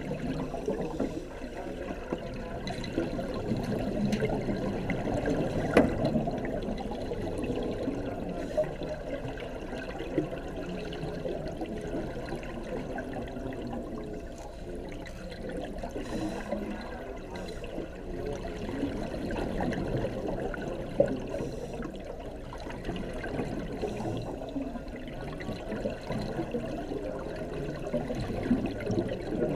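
Water bubbling and churning in an underwater welding tank, a steady gurgling rush, with a few sharp clicks standing out.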